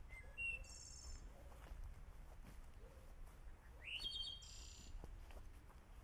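Wild birds calling: two short, bright calls, one about half a second in and another about four seconds in, over a faint low rumble.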